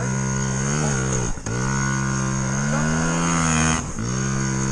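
Yamaha dirt bike engine running under throttle, its revs rising and falling, with two brief sharp drops in revs, about a second and a half in and again near the end, each picking straight back up.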